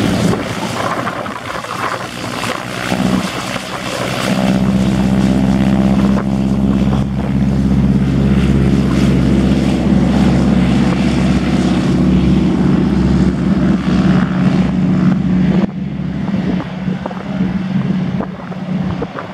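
Boeing PT-17 Stearman's Pratt & Whitney R-985 nine-cylinder radial engine and propeller running steadily. The sound grows louder about four seconds in and drops off suddenly near the end.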